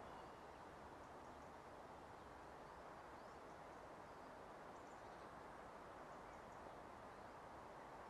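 Near silence: a steady faint outdoor hiss, with a few faint, high, brief bird chirps scattered through it.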